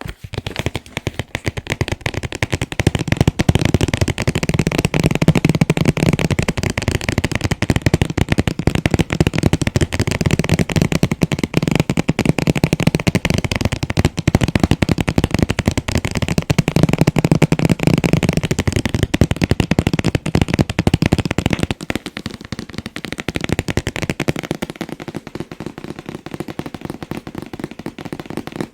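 Rapid, continuous tapping on a collectible figure's packaging box, a dense patter of light hits. It turns quieter and thinner from about twenty-two seconds in.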